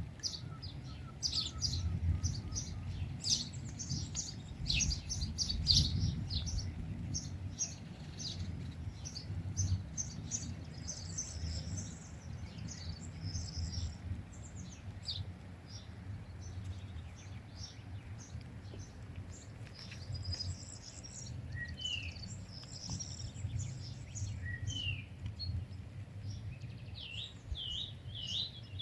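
Small birds chirping and calling: many short, quick chirps throughout, with a few short rising whistles past the middle and a run of repeated notes near the end, over a low steady rumble.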